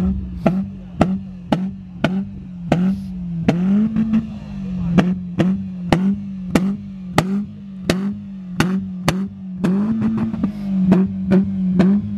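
Car engine held at steady revs, rising slightly a couple of times, with sharp clicks repeating evenly about twice a second.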